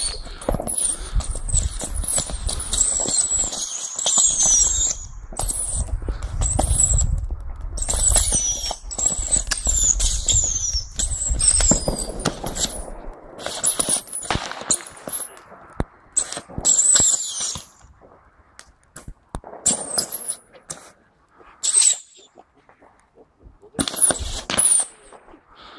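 Hundreds of small baby rockets firing off a rack in a dense barrage: many short, high falling whistles and fizzes with sharp cracks over a low rumble. About halfway through the rumble stops, and the launches thin to scattered bursts of a few rockets with short quiet gaps between them.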